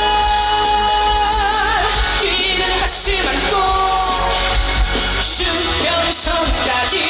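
Live amplified trot song: a male singer holding long notes with vibrato over a backing band with a heavy, steady bass.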